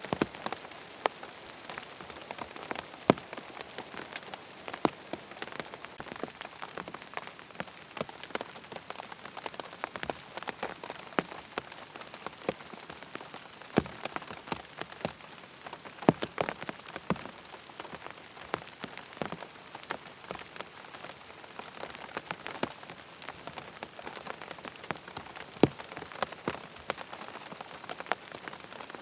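Steady rain falling on a surface, with frequent irregular sharp ticks scattered through it.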